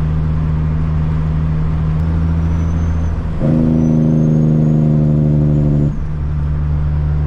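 Caterpillar C-15 diesel engine of a Kenworth truck running steadily on the road. About three and a half seconds in it turns louder and harsher for roughly two and a half seconds, then drops back to its steady note. A faint high whistle sits above it.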